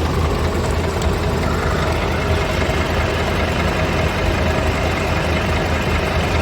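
Scania P280 truck's nine-litre five-cylinder diesel engine idling steadily.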